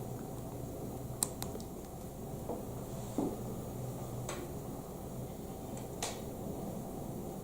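Lego Technic plastic pieces clicking as they are handled and pressed together: a few sharp, scattered clicks over a steady low hum.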